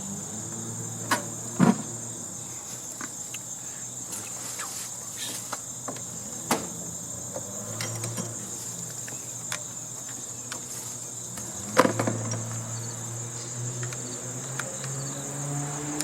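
Crickets chirping steadily, with sharp metallic knocks and clicks of hand tools on sheet metal as a nut is worked loose on an air-conditioning unit; the loudest knocks come about a second and a half in and near twelve seconds. A low hum rises in pitch near the end.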